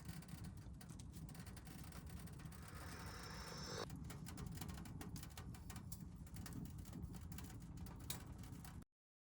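Wood fire crackling in a small wood stove: scattered sharp crackles over a steady low rumble, with a short hiss that stops abruptly midway. The sound cuts off suddenly near the end.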